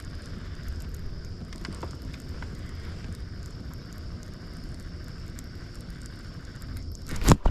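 Wind buffeting the microphone: a steady low rumbling noise with a faint high whine over it. A single sharp knock comes near the end.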